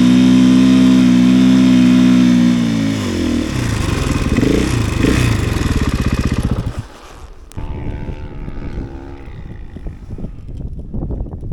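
A 450cc snowbike's single-cylinder four-stroke engine running hard at steady high revs. About three seconds in the revs fall, then rise and fall unevenly. Near seven seconds the engine sound drops sharply, and it goes on lower and weaker with uneven low thumps.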